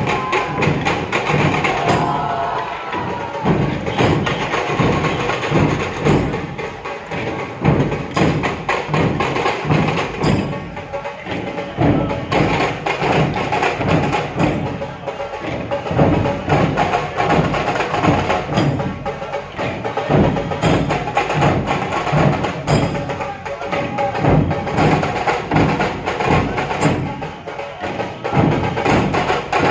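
Percussion-led music with fast, dense, rhythmic drum strikes running throughout.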